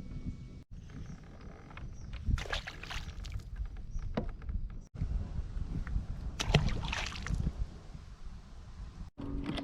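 Water splashing and sloshing around a kayak, in two longer splashy stretches, over a steady wind rumble on the microphone; the sound cuts out abruptly twice.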